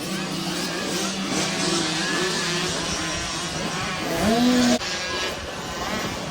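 Several dirt bike engines revving and changing pitch as they race around a motocross track. About four seconds in, one bike rises loud and close, then the sound breaks off abruptly.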